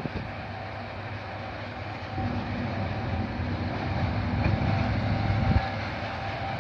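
A train running by on the line, its rumble growing louder from about two seconds in, with a faint steady tone over it.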